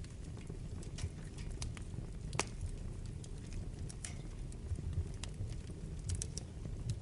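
Wood fire burning in a fireplace: a steady low rumble of flames with irregular sharp crackles and pops, the loudest pop about two and a half seconds in.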